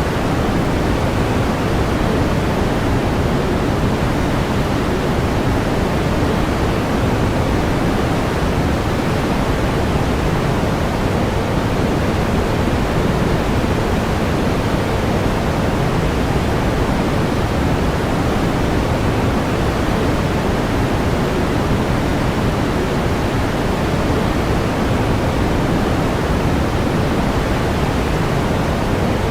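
Steady pink noise: an even, unchanging hiss weighted toward the low end, with no tones or events.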